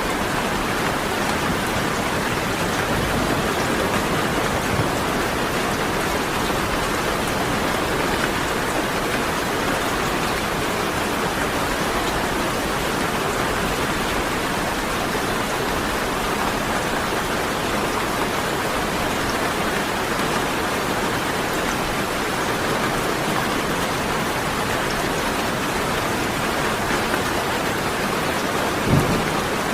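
Steady, dense rainfall, an even hiss of drops that does not change, with one brief low thump near the end.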